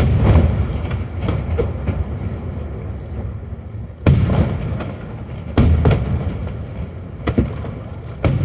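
Aerial firework shells bursting: a boom just before the start rolls on into a long rumbling crackle, then further sharp booms about four, five and a half, seven and eight seconds in, each trailing off in crackle.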